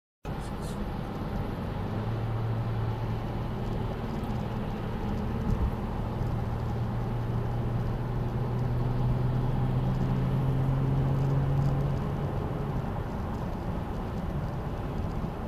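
Car engine running with road noise, its hum rising slowly in pitch; a brief knock about five and a half seconds in.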